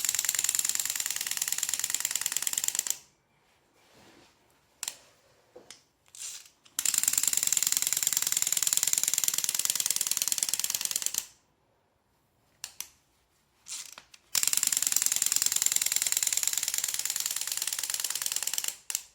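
Lamaze Flip Flap Dragon baby toy's wing mechanism clicking rapidly as its wings flap, in three runs of a few seconds each with short pauses between them. Small handling knocks fall in the pauses.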